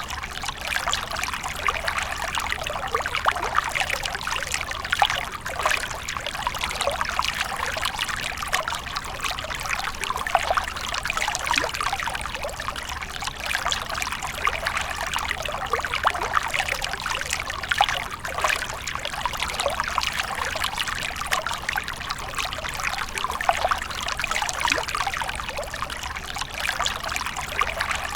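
Fountain water splashing and trickling steadily into a pool, a continuous patter of small splashes.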